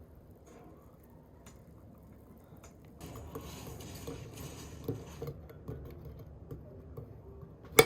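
Dishes and cutlery clinking at a table, starting about three seconds in, with one sharp loud clink near the end.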